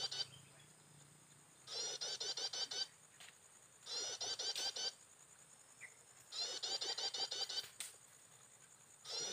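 Bar-winged prinia song: bursts of about a second of rapid, sharp repeated notes, each burst alike, coming back about every two and a half seconds, three full bursts in all.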